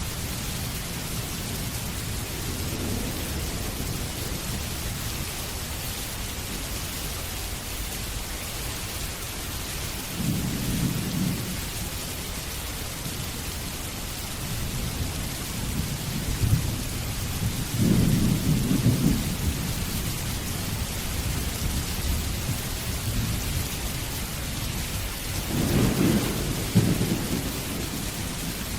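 Steady heavy rain with rolls of thunder rumbling low several times, the strongest about two-thirds of the way through and near the end.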